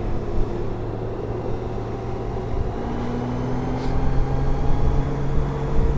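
Honda Gold Wing motorcycle under way on a highway, with a steady engine hum over continuous road and wind noise. Midway the engine note steps up in pitch and gets a little louder as it picks up speed.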